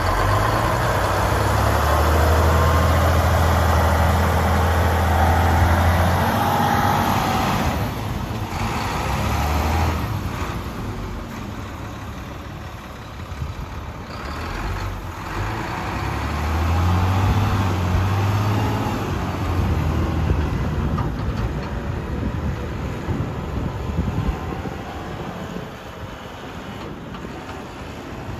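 Diesel engine of a Volvo A25G articulated dump truck running, with a deep steady drone that is loudest in the first six seconds and swells again around halfway through.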